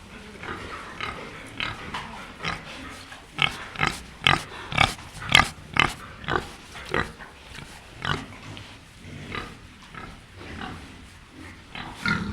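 Domestic pig grunting in a run of short calls, about two a second, loudest in the middle.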